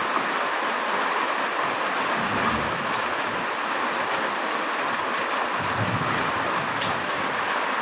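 Heavy rain falling steadily, a dense even hiss. A brief low rumble comes about two and a half seconds in and another about six seconds in.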